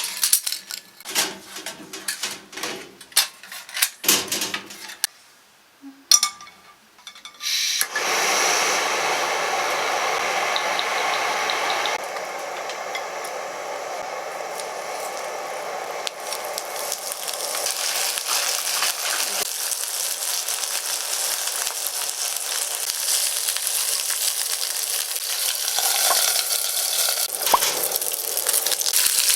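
Cookware clinking and knocking for several seconds, then dumplings sizzling steadily in oil in a frying pan, starting suddenly about eight seconds in and getting a little louder toward the end.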